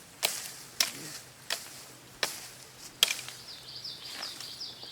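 Sharp knocks roughly every three-quarters of a second from a hand tool working at a green branch as it is cut for a gig shaft. A high, wavering bird call comes in about halfway through.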